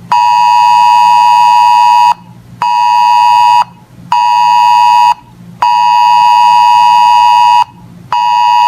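Weather alert radio's alarm buzzer sounding for an incoming alert. A harsh, steady-pitched beep repeats in a pattern of one two-second tone followed by two one-second tones, with half-second gaps between.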